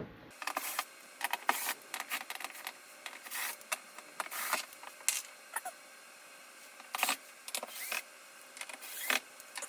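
Irregular clicks, knocks and clatter of screws being taken out of a flat-screen TV's plastic back cover and set down, some in quick clusters.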